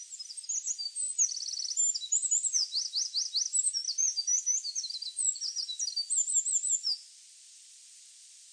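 A songbird singing a fast, varied song of high chirps, rapid trills and sharp down-slurred notes. The song stops about seven seconds in, leaving a steady recording hiss.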